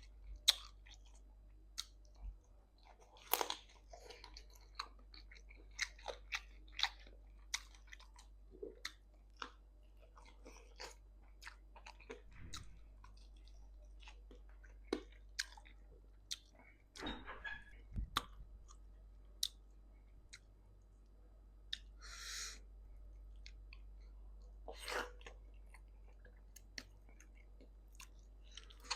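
Close-up chewing and wet mouth sounds of someone eating vegetable soup: irregular smacks and clicks throughout, with a couple of brief hissy bursts about two-thirds of the way in.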